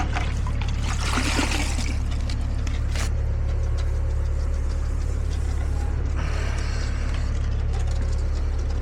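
Heavy diesel truck engine, most likely the concrete mixer truck, running steadily at idle with a deep hum. A brief rush of noise comes about a second in and a sharp click near three seconds.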